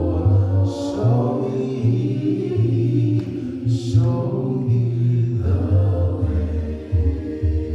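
Slow gospel worship music: a group of voices singing drawn-out words over sustained low accompaniment.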